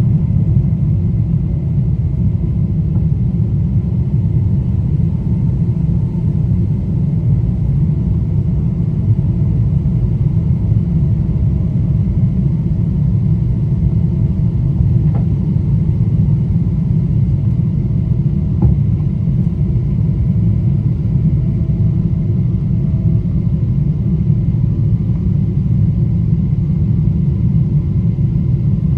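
Boeing 777-200 jet engines and rushing air during takeoff, a loud, steady low rumble with no rise or fall.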